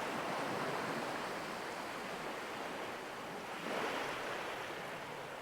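Ocean waves washing on a shore in a steady hiss, with one wave swelling a little louder about two-thirds of the way through.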